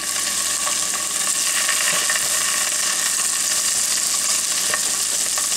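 Scallops searing in hot olive oil in a frying pan as they are laid in one by one: a steady sizzle with scattered faint crackles.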